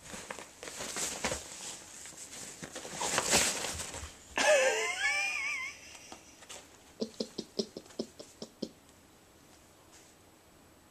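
Irregular rustling and scuffling of a pet moving about in a fabric tent. About four seconds in comes a wavering, pitched animal call lasting just over a second. After that, a quick run of about nine short knocks.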